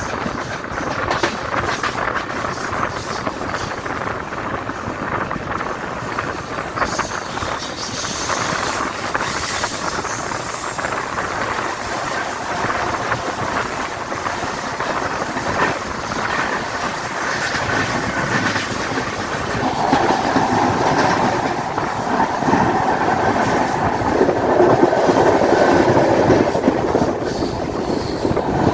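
Passenger train running along the track, its coach wheels clattering over the rails with a steady rumble that grows louder in the last third. A faint high wheel squeal comes and goes in the second half.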